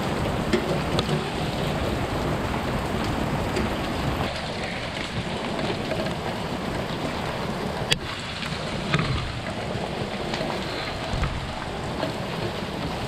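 Heavy rain falling steadily on hard surfaces, with a few sharp ticks of hail, the sharpest about eight seconds in.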